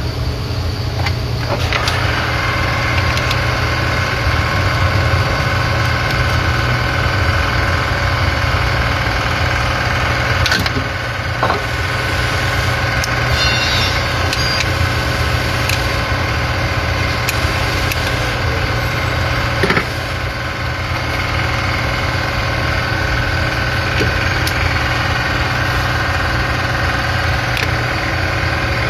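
Car engine idling steadily, with a steady higher whine joining about a second and a half in and a few short clicks along the way.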